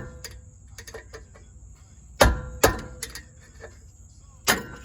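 Hammer blows on a metal car part, each with a short metallic ring: two quick strikes about two seconds in and another near the end, with light clicks in between.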